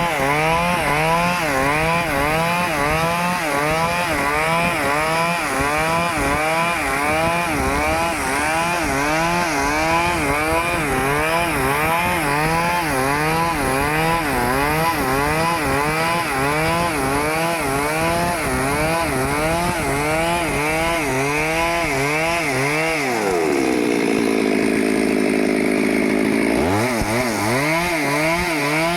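Stihl two-stroke chainsaw cutting teak wood, its engine pitch rising and dipping about once a second under load. A little over twenty seconds in, it drops to a lower, steady pitch for about three seconds, then picks up and cuts again.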